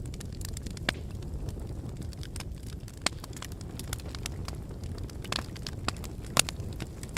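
Wood fire burning in a fireplace: a steady low rumble of flames with scattered sharp crackles and pops, the loudest pop about six seconds in.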